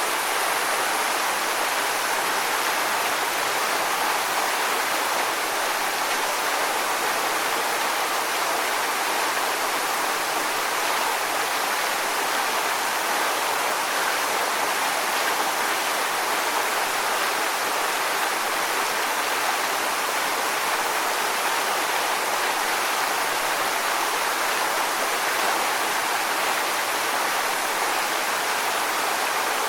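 Waterfall: falling water makes a steady, even rush with no let-up or change.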